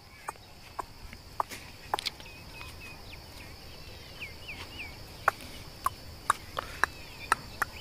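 Faint, short chirps from birds, wavering in pitch, from about two to five seconds in, with about ten sharp clicks scattered through and a steady high hiss.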